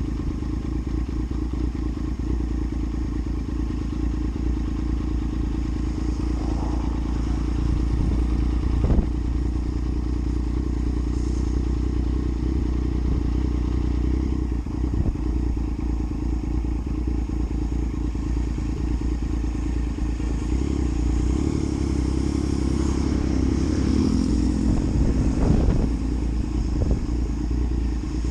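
Yamaha MT-09's three-cylinder engine running while the bike is ridden, with steady road and wind noise. The engine note shifts and gets busier from about twenty seconds in. There is one sharp knock about nine seconds in.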